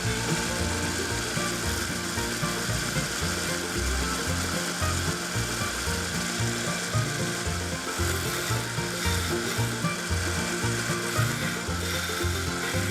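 Small belt sander running with steel wrench parts pressed against the belt, a steady grinding hiss that changes with the pressure, over background music with a bass line.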